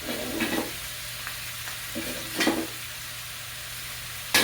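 Curry chicken frying in a hot pot with a steady sizzle, with a few short stirring or handling noises and a sharp knock near the end.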